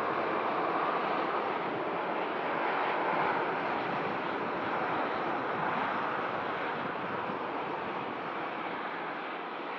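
Jet airliner engines, a steady rushing noise that eases slightly near the end.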